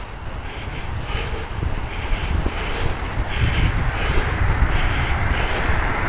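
Wind buffeting the microphone of a camera carried on a moving bicycle: a steady, heavy low rumble with a hiss above it.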